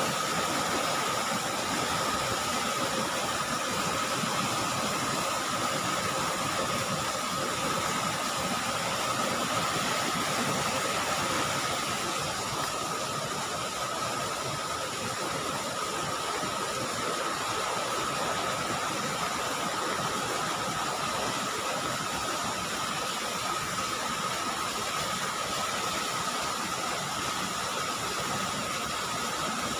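Steady rushing noise of rain and flowing floodwater, even and unbroken, with a thin high steady tone running through it.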